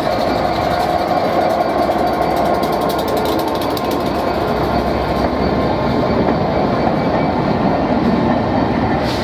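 A Class 67 diesel locomotive hauling a rake of Pullman coaches slowly past along the platform: the locomotive's engine running, then the coaches' wheels rolling on the rails, a steady noise throughout.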